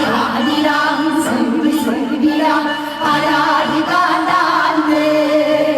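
A woman singing a Korean folk song live with band accompaniment, her voice carrying a sliding, ornamented melody over the music.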